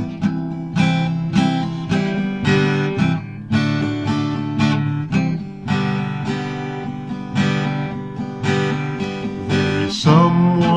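Acoustic guitar strummed in a steady rhythm, playing the instrumental introduction to a song.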